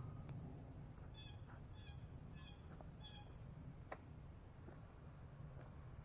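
An animal calls faintly four times in quick succession, short evenly spaced calls about two-thirds of a second apart, over a low steady background rumble, with a faint click near the end.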